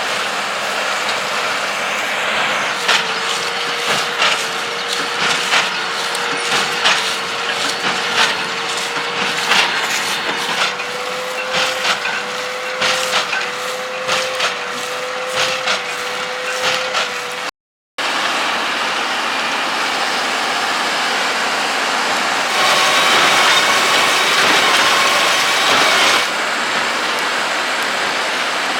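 Tractor pulling a Claas Quadrant 5300 RC large square baler, running steadily with a hum and repeated sharp knocks and cracks as it packs straw. The sound breaks off for a moment just before the middle, then steady running resumes.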